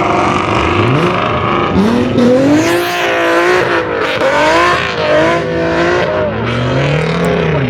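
Car engine revving hard, its pitch rising and falling several times, as from a car pulling out under heavy throttle.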